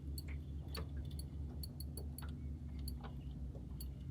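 Fishing reel being wound in on a hooked fish: irregular light clicks and ticks, several close together just after the middle, over a steady low hum.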